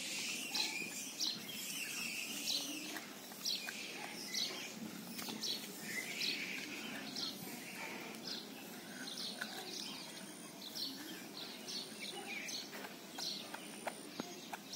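Small birds chirping, short high chirps repeating several times a second throughout, over a faint steady background noise.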